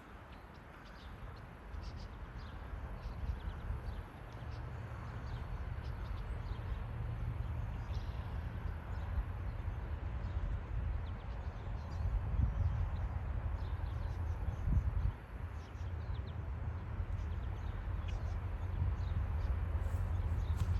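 Birds chirping over a low rumble from approaching diesel locomotives running light, which grows louder.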